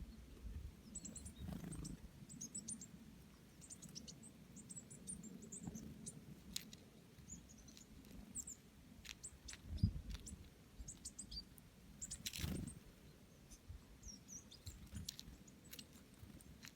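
Small birds chirping, many short high chirps scattered throughout, over a low rumble, with a few knocks, the loudest a little over halfway through.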